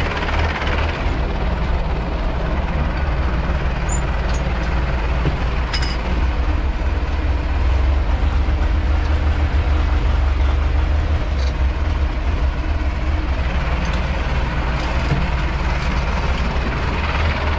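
Farm tractor's diesel engine running steadily under load, growing a little louder around the middle, with one sharp click near six seconds.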